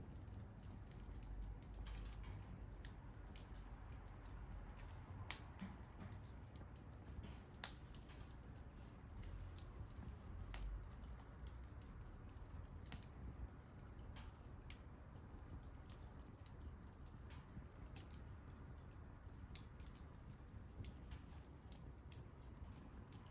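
Wood fire crackling quietly: irregular sharp pops and snaps over a low, steady rumble.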